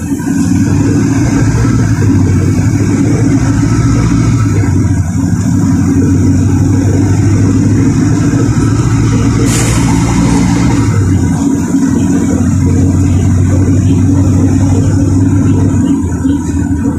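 LiAZ 4292 city bus engine running steadily while the bus drives, with a brief hiss about ten seconds in; the engine note drops off near the end.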